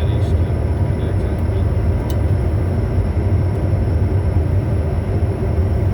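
Steady flight noise of a Bombardier Challenger 350 twin-turbofan jet on approach, heard from inside the aircraft: an even, loud rumble of airflow and engines with two faint high steady whines above it.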